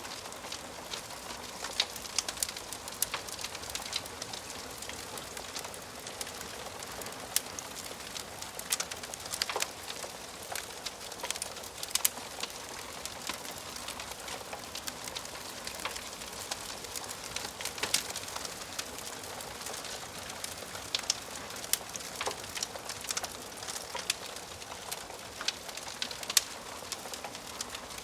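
Wood fire burning in a fireplace, crackling with irregular sharp pops and snaps, several a second, over a steady soft hiss of the flames.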